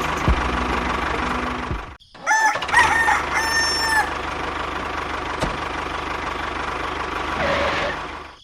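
A small engine running steadily, breaking off briefly about two seconds in. Just after the break a rooster crows, a multi-note call lasting about two seconds, over the engine.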